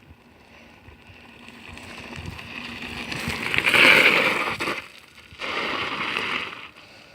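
Bicycle tyres rolling on a gravel dirt track, growing louder as the bike comes close, then a shorter burst of skidding as the rider brakes hard.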